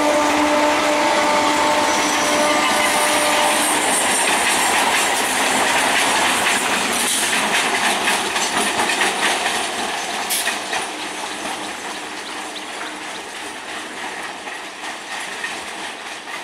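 Electric multiple unit local train running past at speed: wheels rattling and clicking over the rail joints, loud for about ten seconds, then fading as the last coaches go by. A held horn note dies away in the first few seconds.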